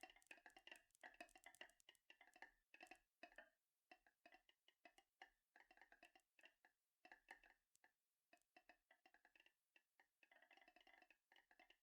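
Faint, irregular clicking and rattling of marbles rolling and knocking along a marble run track.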